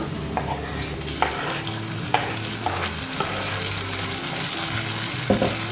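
Chopped onion, garlic and tomato sizzling in hot oil in a kadai, stirred with a spoon that clicks against the pan a few times.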